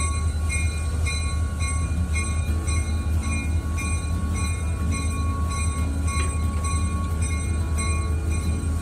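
Heritage railway train running: a steady low engine rumble with a ringing tone that breaks off and returns about twice a second.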